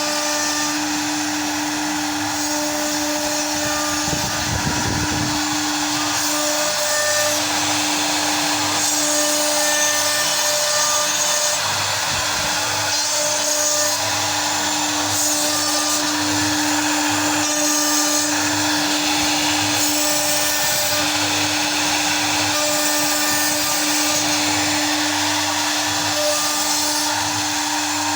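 CNC router carving: the spindle runs with a steady hum under a constant cutting noise, while the axis stepper motors add short tones that start and stop as the machine moves.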